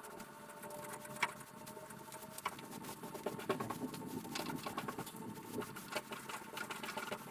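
Paintbrush work spreading varnish on a canoe hull: soft brushing and rustling with small taps and clicks, two sharper clicks in the first few seconds, and a faint steady hum underneath.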